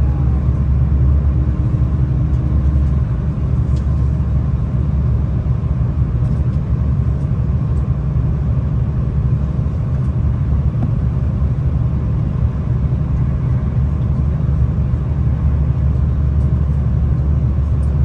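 V/Line regional passenger train running at speed, heard inside the carriage: a steady, loud low rumble with a few faint light clicks.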